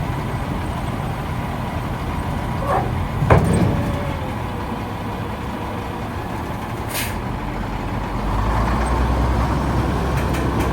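2001 International 4700 dump truck's engine running steadily, with a sharp loud release about three seconds in and a brief hiss near seven seconds. The low rumble grows louder about eight seconds in.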